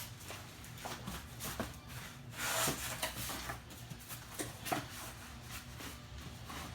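Handling and opening a cardboard shipping box: scattered knocks and rubbing of cardboard, with a louder rasping rub about two and a half seconds in.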